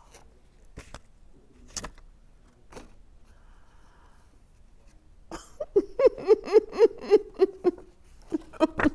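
A woman weeping, in a run of short rhythmic sobs about four a second that start a little past halfway, after a few faint clicks about a second apart.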